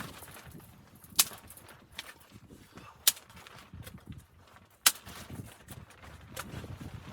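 Four sharp knocks or snaps, spaced roughly a second and a half to two seconds apart, over a low rumble.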